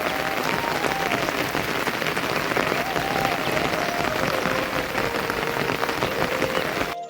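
Steady rain falling, a dense patter of drops, with a faint thin tone stepping up and down in pitch underneath. The sound cuts out abruptly just before the end.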